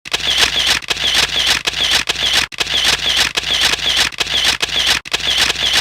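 Camera-shutter sound effect repeating about every second, a dense noisy burst each time with a short gap between.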